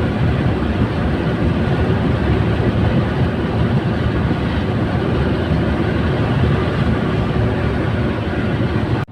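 KamAZ 4308 truck's diesel engine and road noise, heard from inside the cab while driving: a steady, dense low rumble.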